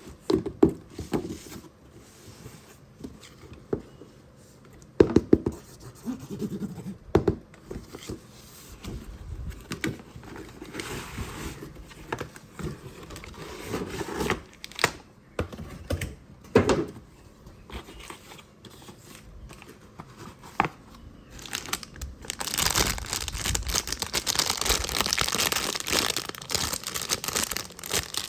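Hands unpacking toys: plastic and cardboard packaging being handled, with scattered knocks and scrapes, then a longer stretch of crinkling and tearing near the end.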